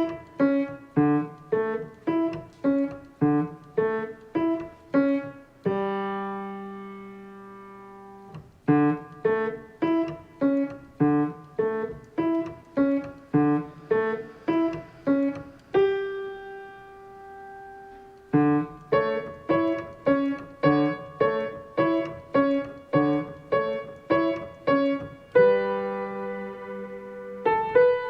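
Background piano music: a steady run of notes, about two a second, that pauses three times on a held chord left to ring and fade.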